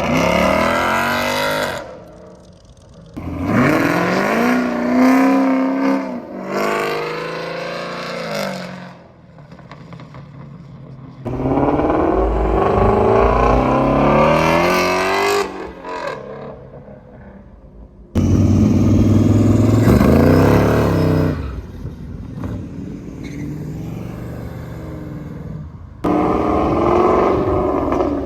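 Muscle-car engines revving hard in a run of short clips. Each burst climbs and falls in pitch, and the sound changes abruptly at about 3, 11, 18 and 26 seconds in.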